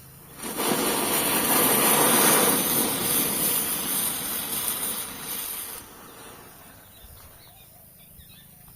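Diwali ground chakkar (ground spinner firecracker) burning with a loud hiss that starts suddenly about half a second in and dies away after about five seconds.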